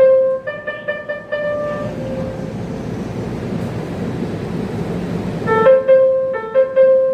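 A subway train's electronic melody horn sounds a short tune of clear notes that ends about two seconds in. The train's steady running rumble follows, and the same tune starts again near the end.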